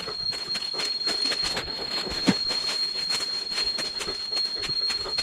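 Footsteps and rustling as someone pushes through jungle undergrowth and leaf litter, an irregular crackle of many small snaps and brushes. A steady high-pitched whine, typical of jungle insects, runs under it.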